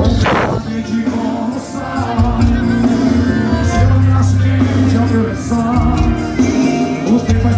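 Live forró music with a heavy bass line and a male singer, from a band on stage.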